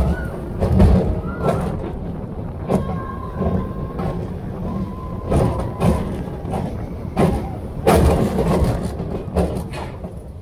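Roller coaster on-ride sound: the train rumbling along the steel track, with repeated knocks and buffets. It eases off near the end.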